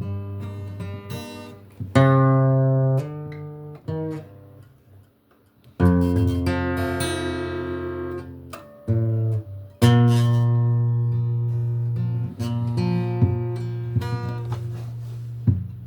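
Acoustic guitar playing an instrumental passage between sung verses: strummed chords that ring out and fade, with a short pause about five seconds in.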